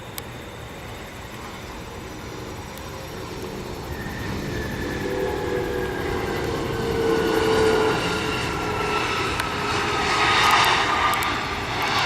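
Airplane engines growing steadily louder as an aircraft approaches and passes close by, with an engine whine that falls slowly in pitch.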